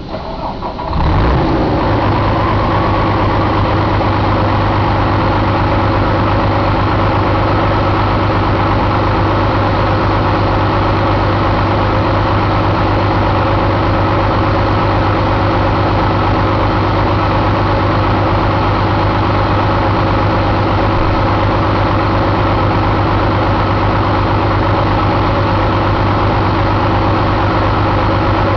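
Paccar MX13 inline-six diesel engine cranked and catching about a second in, then idling steadily.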